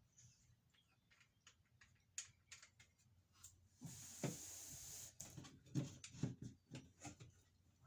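Light clicks and knocks of plastic plumbing pipe and fittings being handled and fitted. About four seconds in there is a hiss lasting about a second, followed by a quicker run of knocks.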